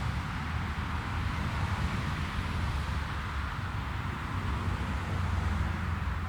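Jet airliner engine noise, a steady roar with a low rumble that swells slightly near the end, and wind buffeting the microphone.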